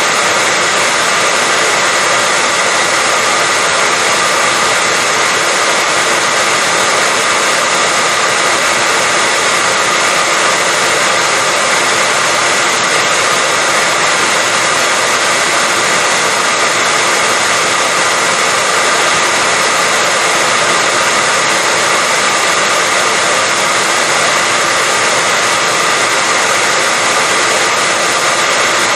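Hair dryer running steadily: an even rush of air with a steady whine from its motor, unchanging in level.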